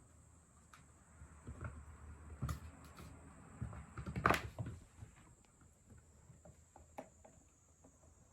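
Scattered light knocks, rustles and scuffles of a kitten playing, with the loudest burst of knocking about four seconds in.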